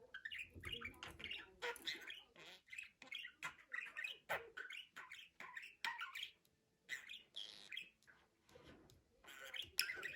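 Budgerigar chattering and warbling, a fast, irregular run of short chirps and squawks with a brief lull in the middle.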